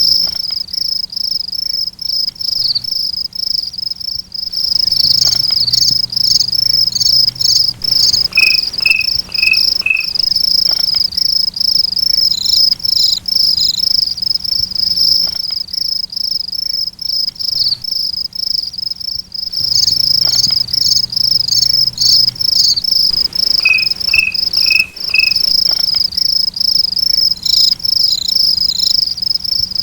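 Crickets chirping: a continuous high-pitched, rapidly pulsing trill, with short series of extra chirps at other pitches breaking in every so often.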